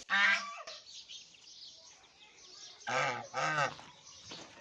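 Geese honking: three short honks, one at the start and two in quick succession about three seconds in.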